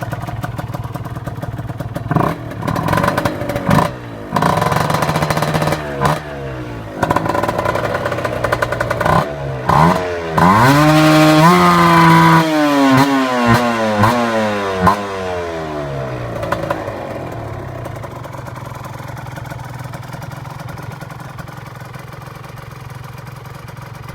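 Kawasaki Ninja 150 RR two-stroke single with a PDK Tsukigi expansion-chamber exhaust, idling and then blipped up several times, with one rev held high for about two seconds near the middle, before dropping back to a steady idle that slowly fades.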